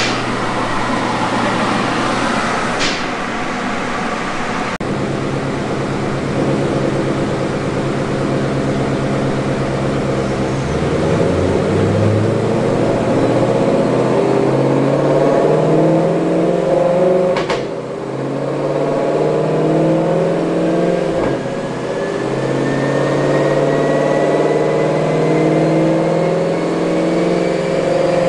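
2020 Shelby GT500's supercharged 5.2-litre V8 running, its pitch stepping up partway through, with a thin whine rising slowly through the second half.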